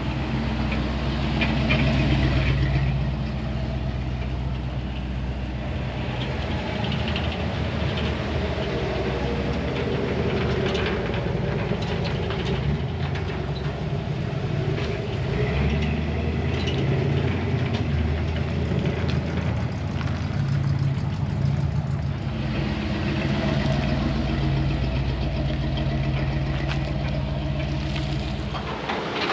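Vehicle engine, likely a truck's, idling and running steadily.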